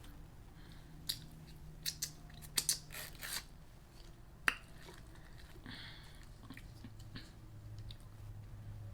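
A person chewing food close to the microphone. There is a quick run of sharp crunches and clicks in the first few seconds, a single crunch about halfway through, then softer wet chewing.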